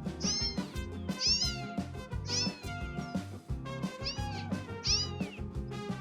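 A young kitten mewing five times, each short high-pitched call rising then falling, over background music.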